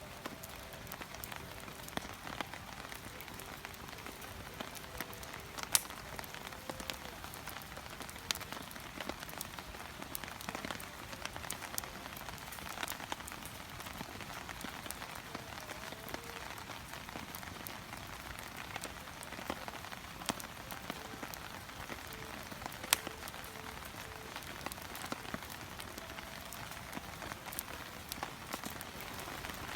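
Wood fire crackling in a Coleman Fire Disc fire pit, a steady crackle with scattered snaps and a couple of louder sharp pops.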